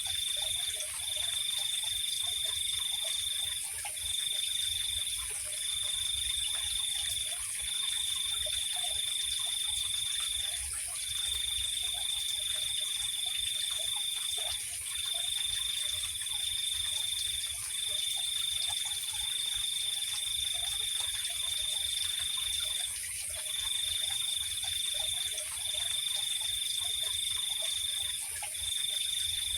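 Night insect chorus: a steady high trill that breaks off every one to four seconds, over a constant higher-pitched insect hiss, with faint frog calls lower down and a low rumble beneath.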